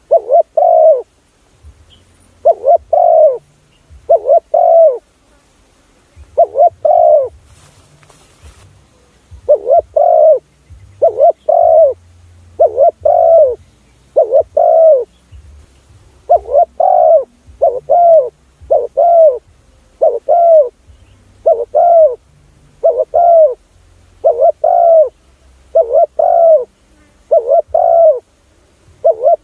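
Spotted dove cooing over and over, short paired coo notes about once a second with a few longer pauses in the first half: a recorded call used to lure wild spotted doves.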